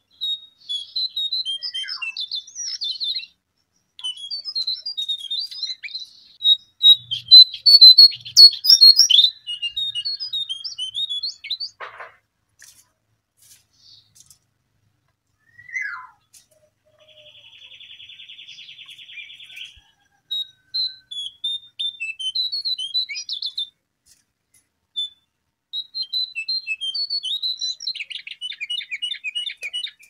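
Jongkangan (cingcoang coklat) calls: phrases of rapid, high chirps a few seconds long, broken by short pauses, with a buzzy trill about two-thirds of the way through. They are the lure call that is set to draw the birds in.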